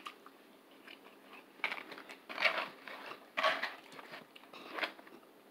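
Close-up chewing of a mouthful of carne asada chili cheese fries, in short, irregular bursts.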